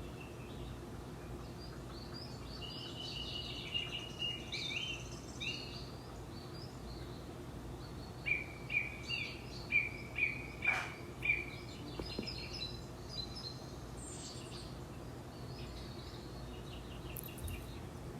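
Birds chirping and singing, with a run of short, evenly repeated whistled notes about a third of the way in, over a steady low hum.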